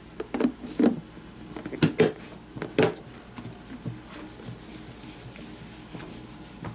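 Lidded plastic food container being handled: a few sharp knocks in the first three seconds as floured chicken drumsticks go in and the lid is pressed on, then a soft clatter as the closed container is shaken to coat the chicken in seasoned flour.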